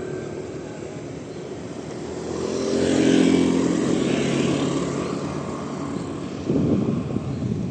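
A motor vehicle passing close by, its engine note swelling to a peak a few seconds in and then fading away.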